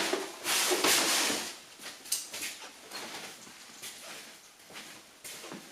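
Handling noise: a loud rustling scrape about half a second in, then scattered light knocks and clicks.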